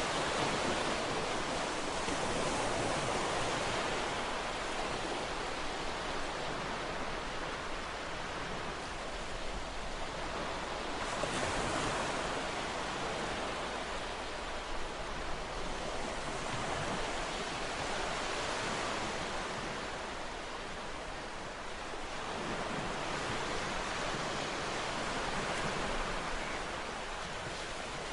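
Ocean waves breaking and washing on a shore: a continuous rushing surf that swells and eases every few seconds.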